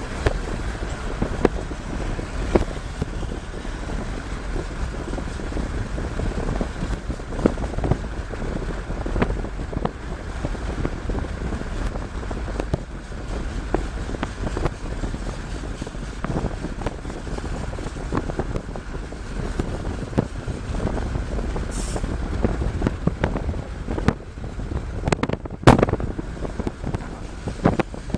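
Wind buffeting the microphone over the steady road noise of a moving car, with scattered small knocks and one sharper knock about three-quarters of the way through.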